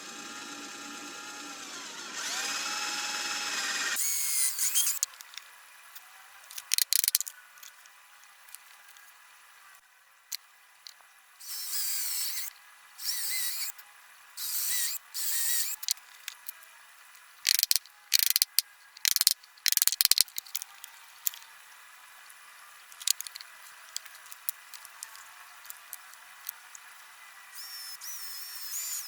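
Electric drill motor running, its pitch dipping for a moment as it is loaded, then stopping suddenly about four seconds in. After that come scattered short bursts of hissing noise and sharp clicks.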